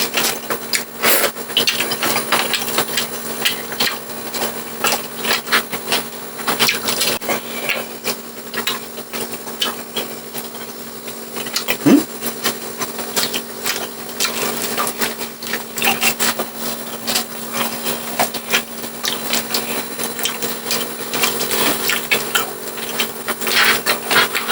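Close-miked eating sounds: chewing and crunching food, with many irregular clicks and taps of utensils against a plate, over a steady low hum.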